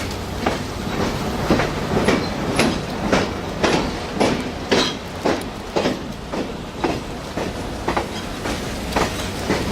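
Passenger train's wheels clicking over rail joints about twice a second, over a steady low rumble as the train rolls along.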